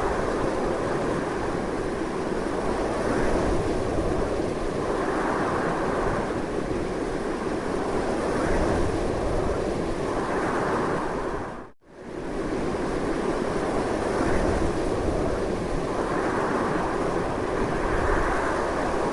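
Strong, steady wind blowing, with slow swells in strength. About twelve seconds in it drops out for a split second and comes straight back.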